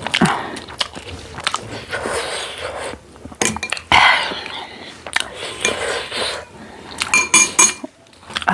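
Close-up chewing and eating sounds, with metal dishware clinking and ringing briefly: once about three and a half seconds in and in a quick cluster near the end.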